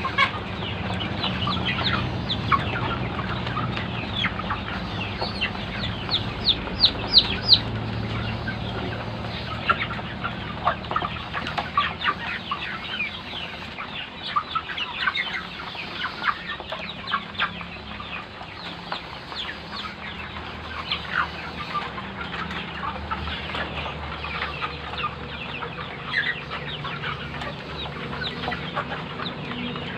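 A flock of chickens clucking, many short calls overlapping, with a burst of busier, sharper calls about seven seconds in.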